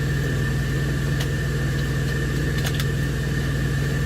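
Semi truck's diesel engine idling, a steady low hum heard inside the cab, with a few light clicks.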